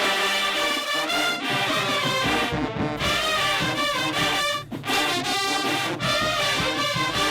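High school marching band playing, its brass section of trumpets and trombones carrying the tune, with a brief break about four and a half seconds in.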